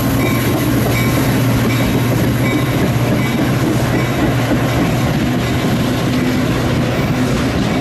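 A train running past close by on the track, loud and steady, with the continuous rumble of wheels on rails.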